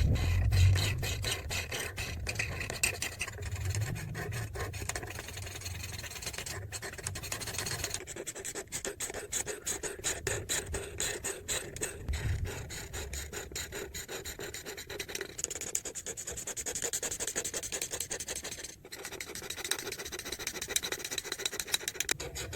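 Marker tip rubbing across paper in quick, continuous back-and-forth coloring strokes, with a few low bumps along the way.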